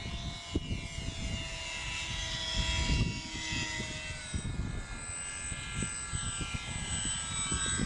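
Small electric RC airplane motor and propeller whining overhead, its pitch sliding up and down as the model passes, then falling away near the end as the throttle comes back. Wind buffets the microphone with low rumbling gusts.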